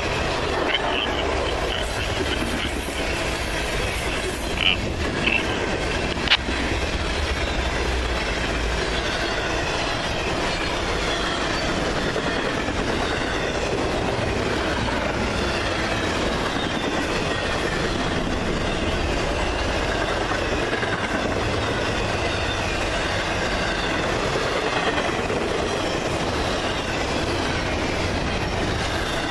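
A long freight train's cars rolling steadily past, with a continuous rumble of wheels on rail and clickety-clack over the rail joints. A few sharp clicks come about four to six seconds in, and a faint wheel squeal sounds now and then.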